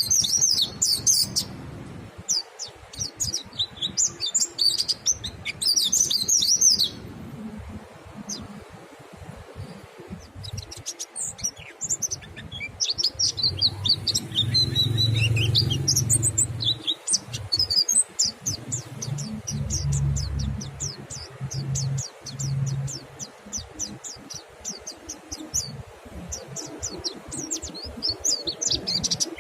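Mountain white-eyes (monty pleci) singing in the fast, chattering ngalas style: rapid high-pitched twittering trills in overlapping runs. A low hum sits underneath partway through.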